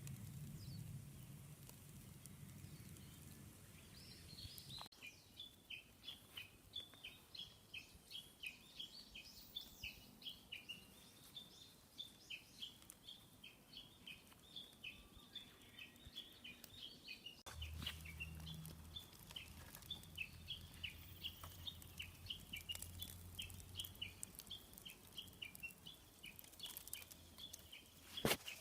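Faint outdoor ambience with a small bird chirping repeatedly, short high chirps about two or three a second, starting a few seconds in. A low hum comes in at the start and again in the middle, and there is a sharp click near the end.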